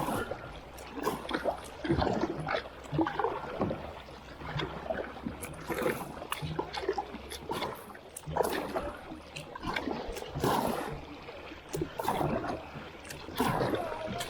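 Kayak paddling: paddle blades dipping and splashing in the creek water, with scattered short knocks and clatter at uneven intervals.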